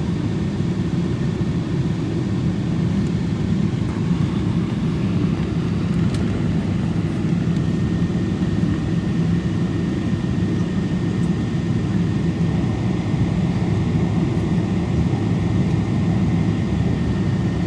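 Steady jet engine and air-conditioning noise heard inside the cabin of a Boeing 777-224 on the ground before takeoff: an even low drone, with a faint steady high whine that becomes clearer about halfway through.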